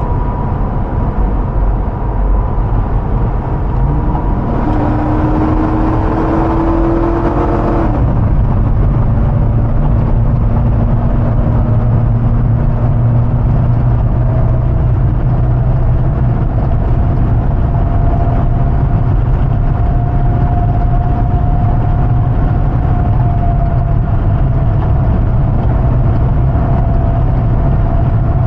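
2005 Hummer H2's 6.0-litre V8 running on the move, a steady low drone. From about five seconds in, a rising tone and extra hiss come in for a few seconds, then cut off suddenly.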